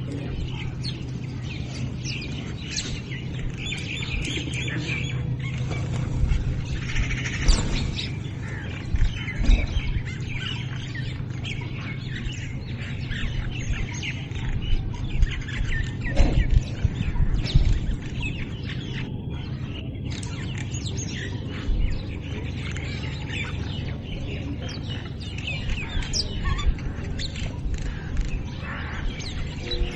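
Many small birds chirping and calling over one another as they feed on scattered grain, with a steady low hum underneath and a few brief low thumps.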